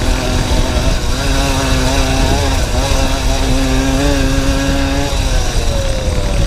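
Small motorcycle engine buzzing along at a steady throttle, with wind rumble on the microphone. About five seconds in the engine note drops and falls away as the rider eases off.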